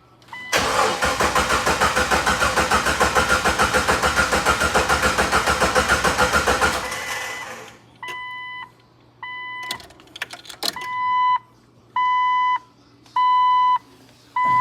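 2000 Jeep Wrangler engine cranking on the starter for about six seconds with a fast, even pulsing, without catching: the fuel system has not yet primed after the fuel pump swap. Then the dashboard warning chime beeps repeatedly, about one beep a second.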